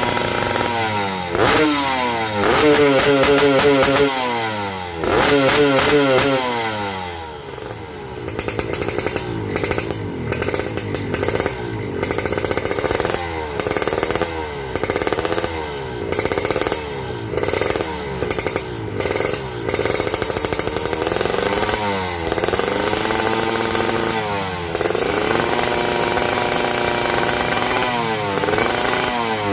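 Kawasaki Ninja SS two-stroke engine exhausting through an Arrow carbon silencer, revved again and again in blips that rise and fall. Between the blips, mostly in the middle stretch, it idles unevenly.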